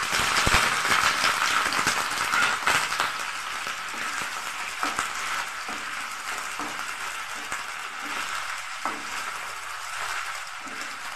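Oyster mushroom pieces dropped into hot oil in a frying pan, sizzling loudest for the first couple of seconds and then settling to a steady sizzle. A metal spatula stirring them adds a few light clicks.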